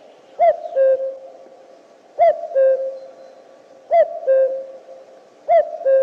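A bird's two-note call repeated four times, about every second and a half. Each call is a short note that rises and falls, then a lower, longer steady note.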